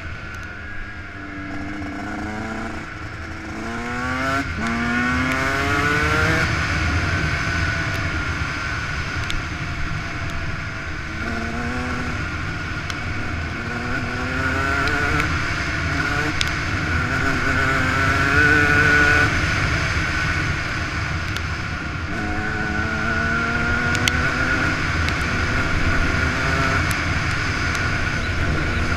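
Yamaha YZ125 two-stroke single-cylinder engine accelerating through the gears, its pitch climbing and dropping back at each shift, in several bursts of acceleration. Wind rushes over the helmet-mounted microphone underneath.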